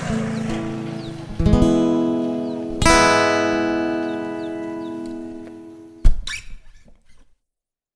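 Acoustic guitar strumming, its last chords ringing out and slowly fading. About six seconds in a sharp knock sounds, and then it goes silent.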